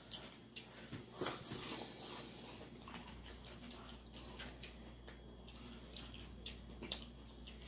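Faint eating sounds: wet chewing and mouth clicks, scattered irregularly.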